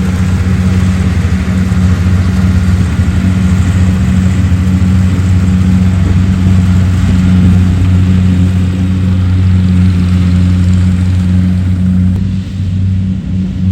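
Rice combine harvester engine running steadily under load, a constant low hum with a mechanical rushing noise over it. The higher rushing noise falls away near the end while the hum carries on.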